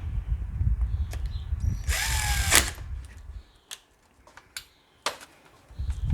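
Cordless drill/driver driving a screw into the generator's side access panel: one short, loud whir about two seconds in that drops in pitch as it stops, with a low rumble and a few handling clicks around it.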